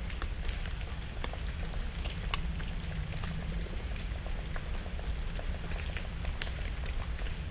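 Dry autumn leaves falling through the branches and onto the leaf litter, a scattered patter of light ticks several times a second, like light rain. A low steady rumble runs underneath.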